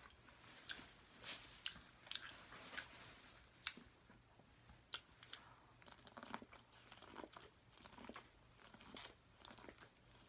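Faint close-up eating sounds: a person biting and chewing food, with a scatter of short wet clicks and crunches.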